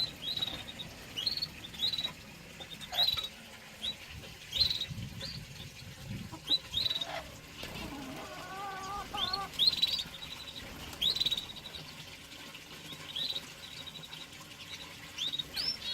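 Small cage birds chirping: short high calls with quick trills, one every second or so, and a lower wavering call about halfway through.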